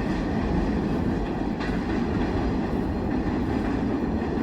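Steady low rumble of a fast freight train rolling away down the track after its last car has passed.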